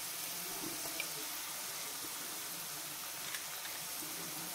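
Onion, beans and carrots sizzling steadily in hot oil in a frying pan as a raw egg is added, with a faint tick about a second in.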